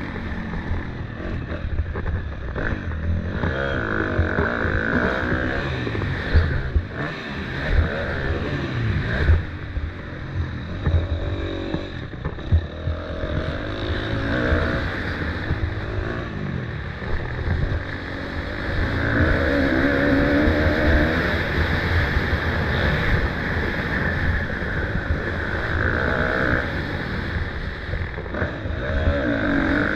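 Motocross motorcycle engines racing, their pitch rising and falling with the throttle and gear changes. There are a few sharp thumps about a quarter of the way in.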